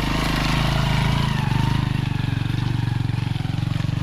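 Small motorcycle engine running under load, its pulsing note growing louder over the first second and then holding steady.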